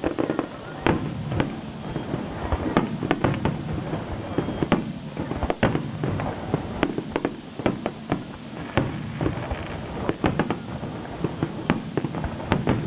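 Fireworks display: many bangs and crackles going off in quick, irregular succession, over a steady low rumble.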